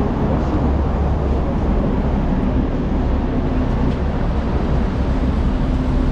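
Steady low rumble of city street traffic, with a faint steady hum coming through in the second half.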